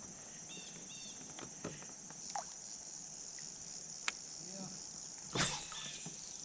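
Steady high-pitched buzz of an insect chorus, with a short louder rush of noise about five seconds in.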